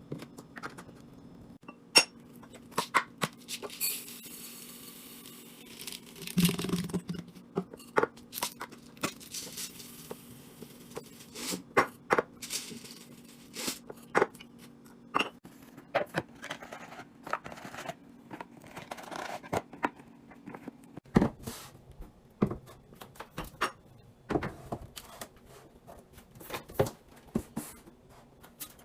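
Restocking and organizing noises: a run of sharp clicks and knocks as items and plastic containers are handled and set down, with stretches of packaging tearing and crinkling.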